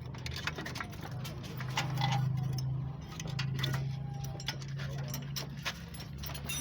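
Hand tools and metal suspension parts clicking and tapping irregularly, over a steady low hum that swells twice.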